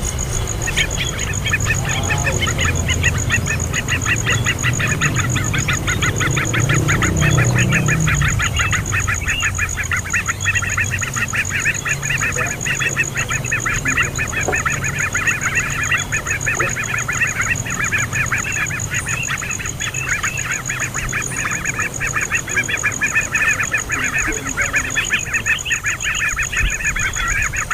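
A bird calling in a long, fast, unbroken chatter of harsh repeated notes, many to the second, starting about a second in.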